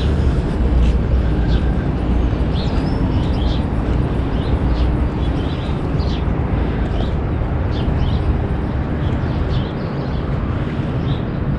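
Outdoor ambience: a steady low rumble, with short high chirps repeating every second or so through it.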